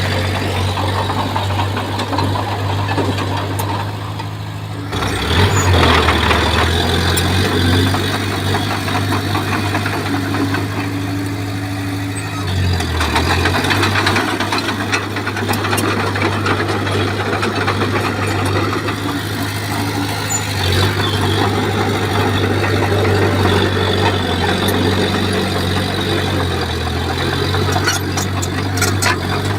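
Bulldozer's diesel engine running steadily under work. The engine note shifts twice, about five seconds in and again about thirteen seconds in, each time with a louder burst of rattle.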